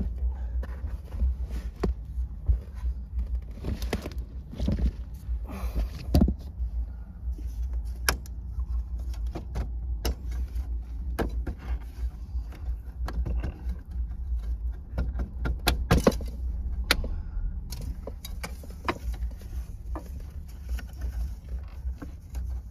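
Scattered clicks, knocks and rattles of window blinds being handled and fitted inside a van, the sharpest knocks around the middle, over a steady low hum.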